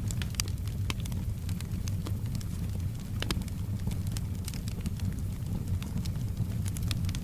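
Wood fire crackling, with sharp irregular pops and snaps scattered throughout over a steady low rumble, and soft rain in the background.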